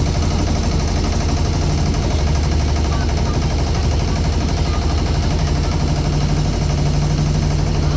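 Motorboat engine running steadily with a low, fast throb.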